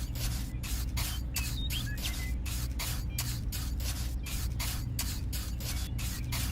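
A small machine running: a steady low hum with a rapid, even pulsing hiss, about four pulses a second.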